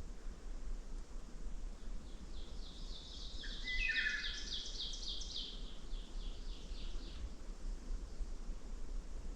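Birdsong in woodland. One bird sings a run of repeated high notes, about three a second, for some five seconds, growing louder and then fading. A short, lower warbled phrase from a second bird overlaps it near the middle.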